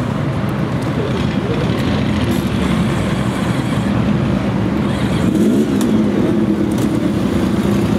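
Several motorcycle engines running together, with one revving up and back down about five and a half seconds in.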